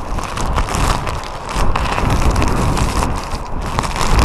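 Typhoon-force wind buffeting a phone's microphone in loud, rumbling gusts, growing stronger about one and a half seconds in.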